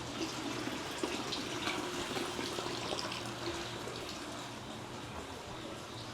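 Water running and splashing steadily, like water pouring from a spout or tap, with a few faint clicks.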